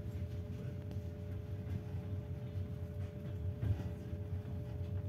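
Interior noise of a moving passenger train carriage: a steady low rumble from the running train, with two steady tones above it and a few faint knocks.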